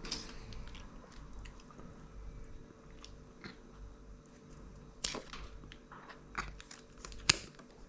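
A pet chewing and crunching its food, with irregular small clicks and a couple of louder sharp cracks about five and about seven seconds in.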